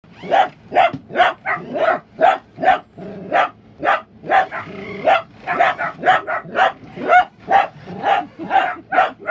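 Dachshund barking over and over in short, sharp barks, about two a second, with hardly a pause.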